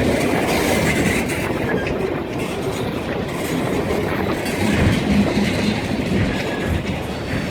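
Freight train rolling past, its car wheels clattering over the rail joints in a steady, continuous run.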